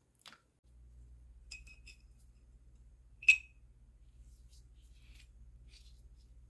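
Small hard parts clicking and being handled, with one sharp ringing metallic clink about three seconds in, over a low steady hum.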